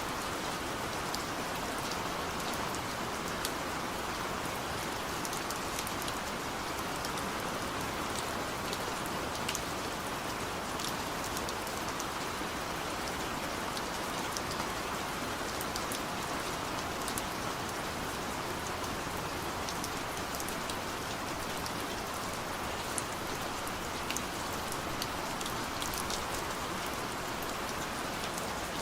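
Steady rain falling on a surface, an even hiss with scattered sharp drop ticks throughout.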